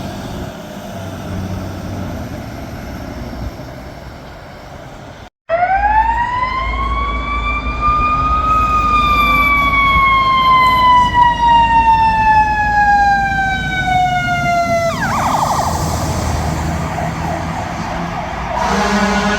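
Fire engine siren starting about six seconds in: it winds up, peaks, then slides slowly down in pitch before dropping abruptly into a fast warble. A horn-like blast starts near the end. Before the siren, steady traffic and truck noise.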